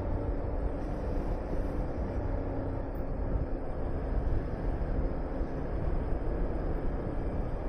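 Honda VTR250's V-twin engine running at a fairly steady speed while riding, mixed with low wind noise buffeting the microphone.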